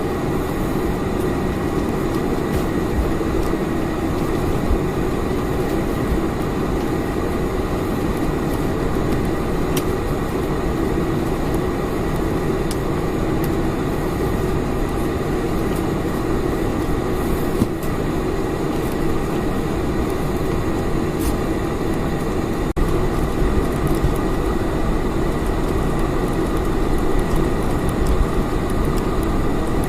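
Steady engine and air noise heard inside the cabin of a Boeing 747-400, with a thin steady high whine. About two-thirds of the way through it changes abruptly to a heavier low rumble.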